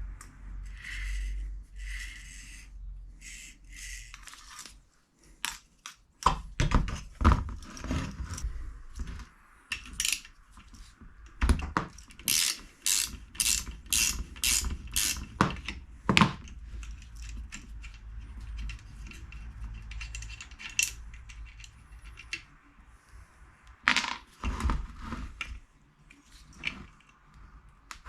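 Irregular clicks and knocks of tools and parts being handled by hand, with a quick run of about eight sharp taps near the middle.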